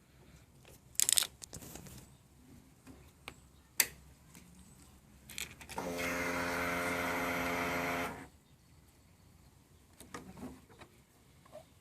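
A small electric motor on a Hyosung GT250R motorcycle whirs at one steady pitch for about two seconds, then cuts off abruptly. A few sharp clicks and knocks come before it.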